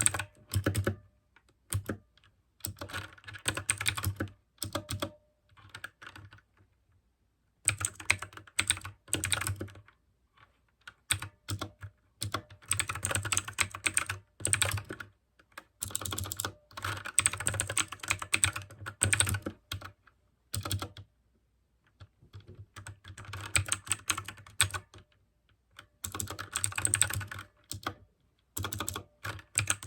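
Mechanical keyboard with clicky blue switches, typed on quickly in bursts of keystrokes with short pauses of a second or two between them.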